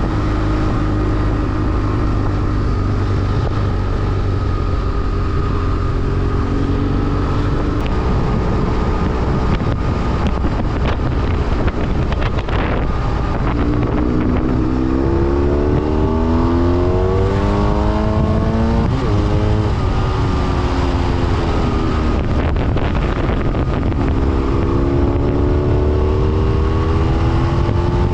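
BMW F800R parallel-twin engine under way with a steady low rumble, revs climbing through the gears twice, in the middle and again near the end, with brief dips at the shifts.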